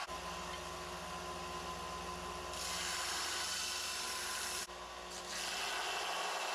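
Steel knife blade being sanded: a steady abrasive hiss over a low hum, growing louder for a couple of seconds in the middle and again near the end.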